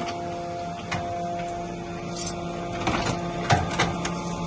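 Hydraulic automatic metal baler running while pressing aluminum extrusions: a steady machine hum with several sharp metallic knocks about a second in and again near the end.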